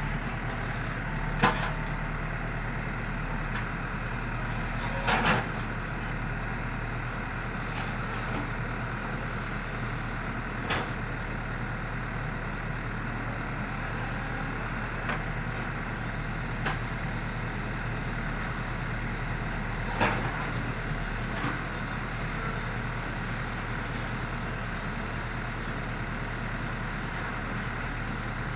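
ACE AX124 backhoe loader's diesel engine running steadily while digging, with sharp metallic clanks from the working machine about a second and a half in, around five seconds, near eleven seconds and around twenty seconds.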